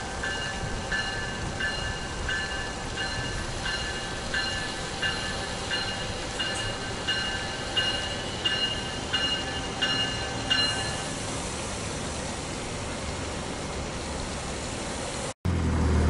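Amtrak train rolling slowly into a station, its locomotive bell ringing in even strokes, about three every two seconds, over the low rumble of the train; the bell stops about ten seconds in. Near the end the sound drops out for an instant, and a louder low rumble follows.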